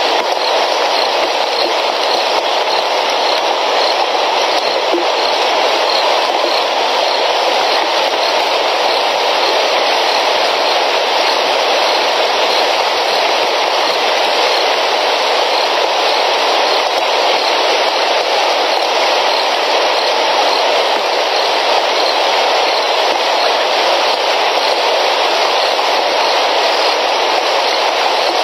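Heavy rain pouring down, a steady, even rushing hiss with no break.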